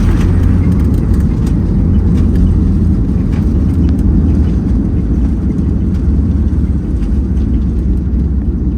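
Steady, loud low rumble of an airplane heard from inside the cabin, with a few faint clicks.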